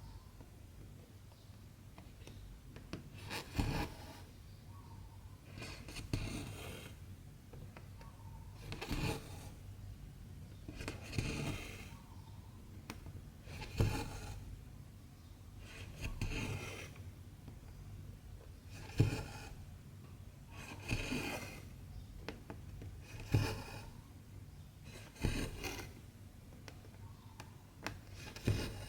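Cotton embroidery thread pulled through 14-count cross-stitch fabric: a short rasp roughly every two to three seconds as each stitch is drawn tight.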